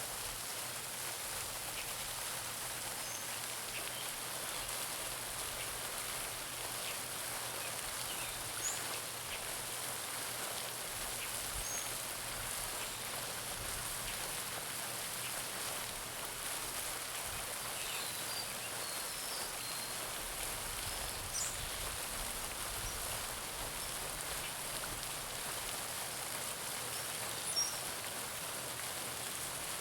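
Garden pond fountain: water splashing steadily into the pond, an even hiss. A few birds chirp briefly in the background.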